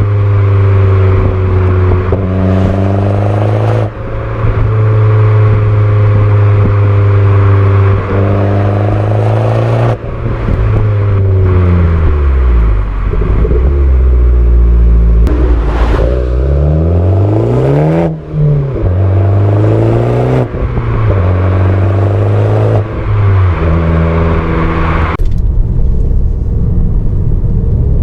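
Alfa Romeo Giulietta 1.4 turbo petrol four-cylinder (170 hp), heard through an aftermarket Paris Garage rear exhaust with the original centre silencer kept, being driven. The engine note climbs and drops repeatedly: it accelerates, falls away at gear changes and lifts, slows around the middle, then pulls up again.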